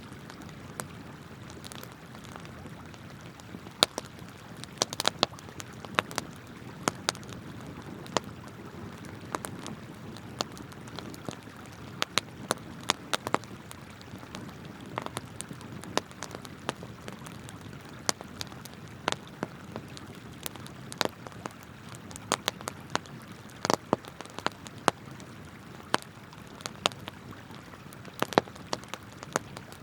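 Wood campfire crackling, with sharp pops at irregular intervals, several a second at times, over the steady rush of flowing river water.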